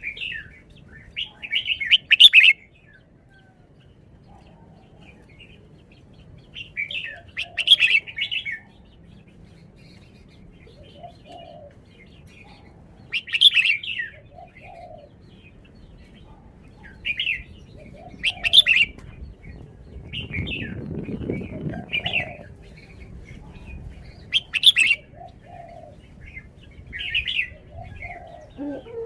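Caged red-whiskered bulbul singing: short, bright warbled phrases repeated every few seconds, with brief pauses between them.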